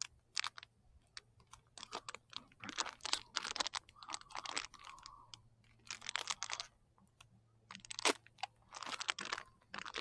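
Plastic snack packaging being handled and pulled open, crinkling and crackling in irregular bursts.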